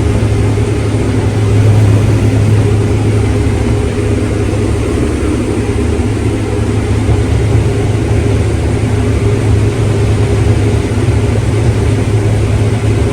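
A heavy farm machine's engine running steadily at constant speed, with a strong low hum.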